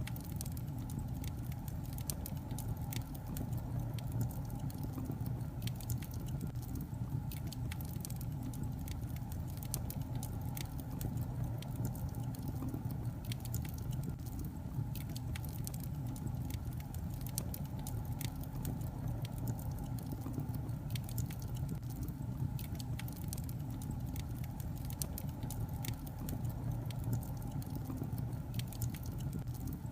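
Wood logs burning in a fireplace: frequent small crackles and pops scattered over a steady low rumble of the flames.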